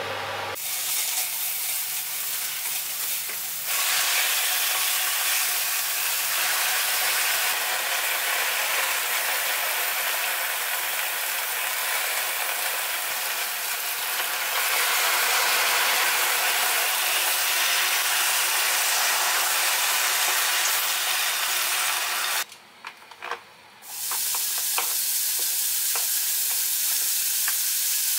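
Food sizzling in a hot stainless steel pan as minced garlic and bok choy are stir-fried. The sizzle grows louder about four seconds in and again about halfway, when water goes into the pan. It breaks off briefly about three-quarters of the way through, then resumes.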